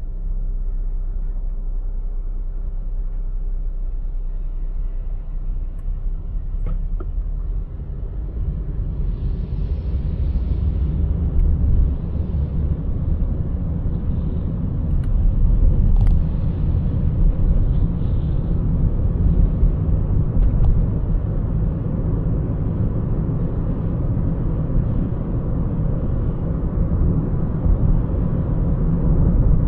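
Car driving, a steady low rumble of engine and tyres on the road. The rumble grows louder about eight seconds in, with a few faint clicks.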